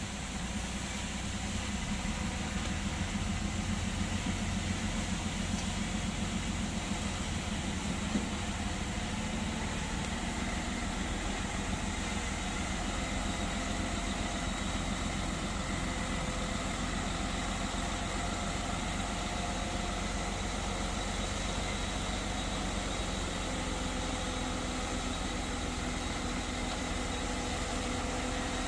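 Heavy diesel engine of earthmoving machinery running steadily at a low, even pace, with a single faint knock about eight seconds in.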